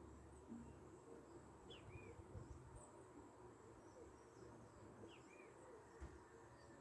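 Faint outdoor birdsong: two similar short chirps, each rising then falling, about three seconds apart, with a few tiny high chirps. Under them runs a steady high-pitched drone and a low rumble of background noise.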